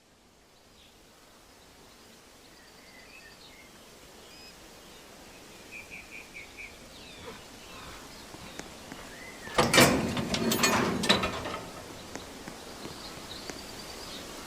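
Outdoor background noise that fades in, with birds chirping now and then, including a quick run of about five chirps. About ten seconds in comes the loudest sound, a two-second burst of knocks and rough noise.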